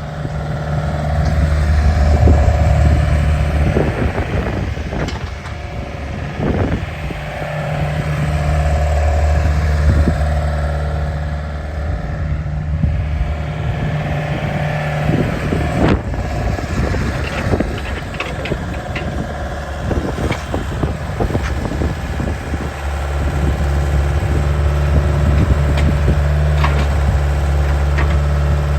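Hyundai R55-7 compact excavator's diesel engine running, swelling louder in stretches as if under load, with scattered knocks and clanks throughout.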